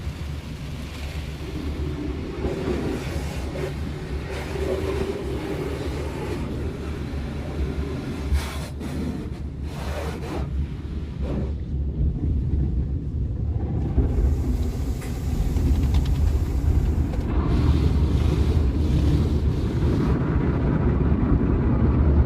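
Automatic car wash heard from inside the car: a steady wash of water spray and machinery with a constant low rumble, growing louder in the second half.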